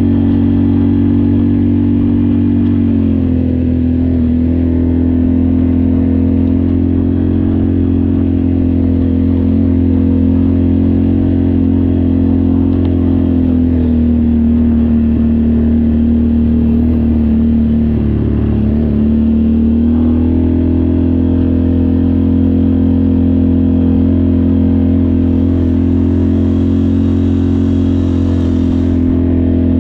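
ATV engine running under way, steady and loud; its pitch drops about three seconds in, eases lower again midway, then rises back as the throttle opens.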